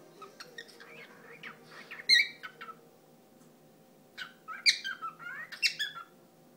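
Cockatiel chirping and whistling. A cluster of short chirps comes about two seconds in, then a louder run of whistled and chirped notes from about four to six seconds.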